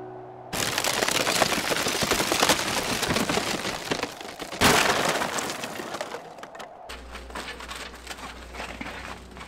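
An old wooden house being torn down: a loud run of cracking, splintering and breaking, with glass shattering and one big crash about four and a half seconds in. Then it eases to quieter crackling over a low steady hum.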